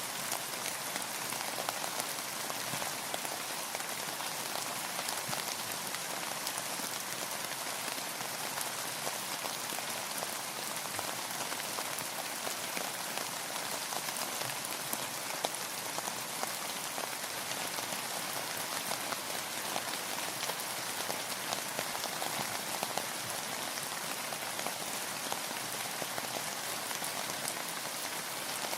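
Steady rainfall, many fine drops pattering on a surface in an even hiss with countless tiny ticks of single drops.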